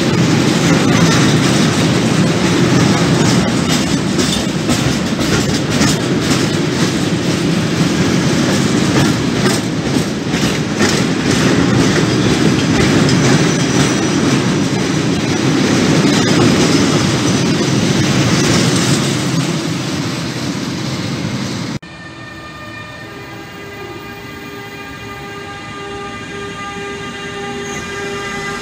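Loaded tank wagons of a freight train rolling past close by, with steady wheel rumble and the clickety-clack of wheels over rail joints. It cuts off sharply about two-thirds of the way in. After that, an electric freight locomotive hauling container wagons comes closer with a steady hum of several tones that slowly gets louder.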